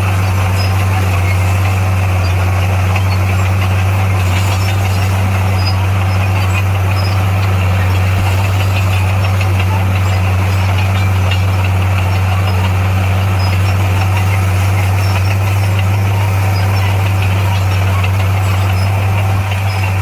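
Heavy diesel engine of earthmoving equipment running at a steady, unchanging speed, a deep continuous drone with a rattly noise over it.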